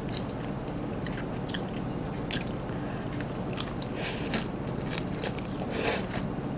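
Close-up crunching and chewing of crisp leafy salad greens, with irregular crackles as the leaves are bitten and a denser crunch near the end.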